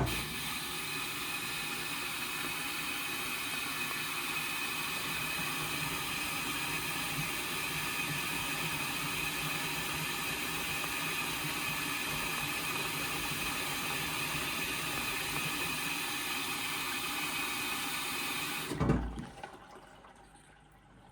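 Indesit washing machine filling: water hisses steadily through the inlet valve into the drum. It starts suddenly, then shuts off near the end with a thud.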